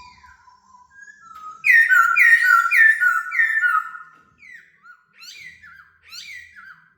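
Laughingthrush singing: a loud whistled phrase of four repeated down-slurred notes, followed by softer, shorter slurred notes near the end.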